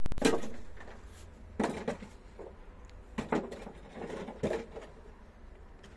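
A handful of irregular knocks and thuds, about six, the loudest at the very start, over a faint low hum.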